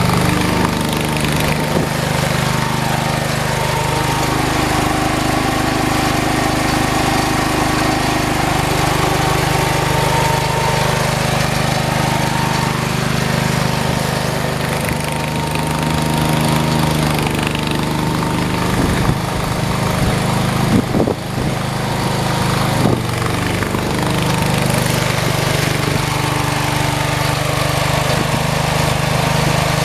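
Engine running steadily as it clears snow, its pitch shifting a little with the load. A few sharp knocks come a little past halfway.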